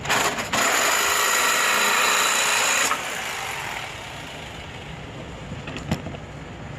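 A power tool run on the car's exhaust pipe, cutting it off: a short burst, then a loud steady run of about two and a half seconds that stops abruptly. A sharp click follows about three seconds later.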